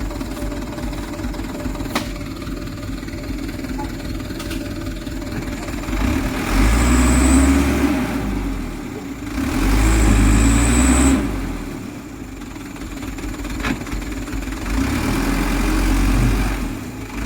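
Mitsubishi Canter HD truck's diesel engine running under a heavy load and revving up hard three times, each surge lasting a second or two, as the loaded truck strains to pull through slippery mud.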